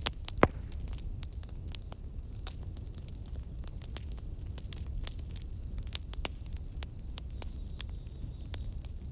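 Wood fire in a fireplace crackling, with many irregular small pops over a steady low rumble of flame; one loud pop about half a second in.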